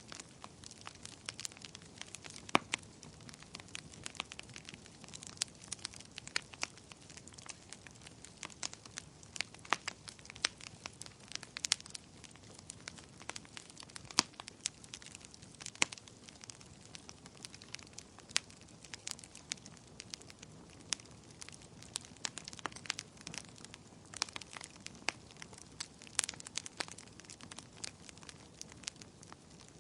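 Campfire crackling: wood burning, with irregular sharp pops and snaps, several a second, over a low steady hiss of the flames.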